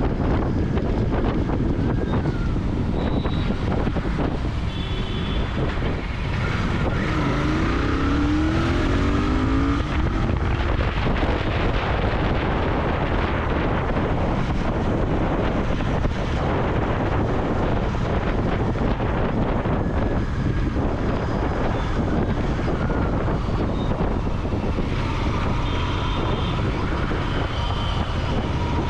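Royal Enfield Continental GT 650's parallel-twin engine and raw exhaust running on the move, with heavy wind noise on the microphone. The engine's pitch rises briefly about seven to ten seconds in.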